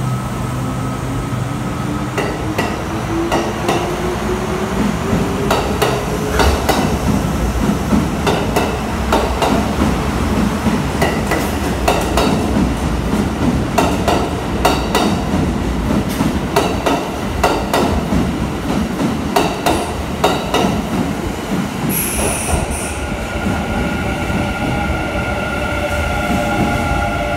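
Trains in an underground station. A Kintetsu 12200-series limited express pulls out, its motor whine rising in pitch over the first six seconds, and its wheels clatter over the rail joints in quick clicks. About 22 s in there is a short high squeal, followed by another train's steady motor tones as it moves along the platform.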